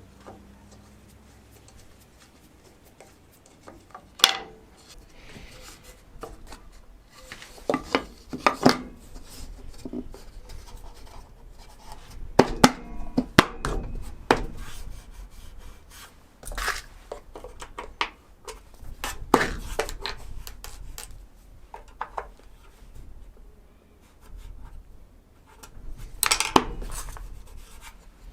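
Hand work on small wooden workpieces: irregular knocks and clacks, with rubbing and scraping between them. No power tool is running.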